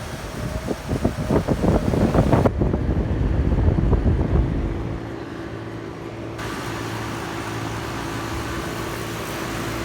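Outdoor heat pump condensing unit running: a loud, gusty low rushing for the first few seconds, then a steady hum from the compressor and fan.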